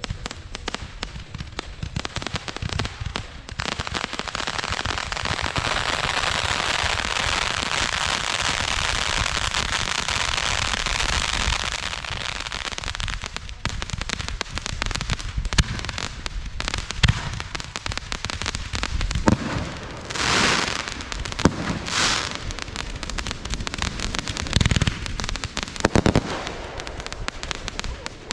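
Fireworks going off: a dense crackling barrage for several seconds, then scattered sharp bangs and pops, with two short hissing bursts late on.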